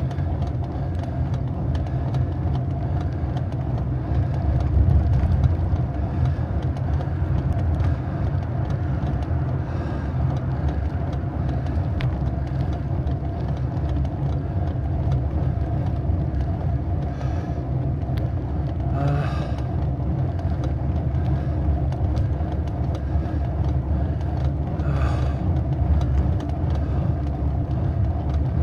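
Steady rumble and rattling of a bike being ridden on a road, picked up through a vibrating camera mount or armrests, with a constant hum and scattered small clicks. Twice, about two-thirds of the way in and again near the end, a brief higher-pitched sound stands out.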